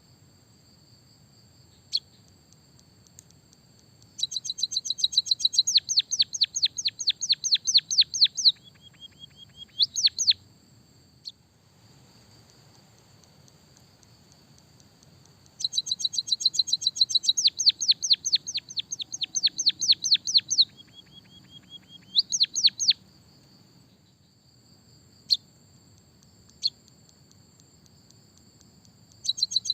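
Emprit kaji (white-headed munia) singing canary-style phrases. There are two long runs of rapid, evenly repeated high down-slurred chirps, about ten a second, each ending in short trills, with a few single chirps between. A steady high-pitched ringing sits beneath the song.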